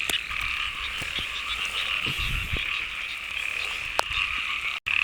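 Dense chorus of many frogs calling at once, a continuous mass of overlapping croaks: a breeding chorus of mating frogs in the rain. The chorus cuts out for an instant near the end.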